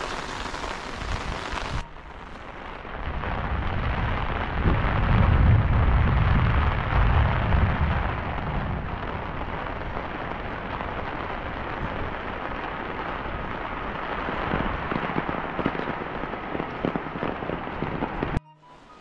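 Heavy rain falling, a steady hiss. A deep low rumble swells from about three seconds in and fades out by about eight seconds.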